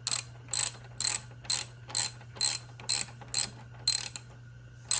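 Repeated mechanical ratchet-like clicking, about two clicks a second with a short break near the end, over a steady low hum.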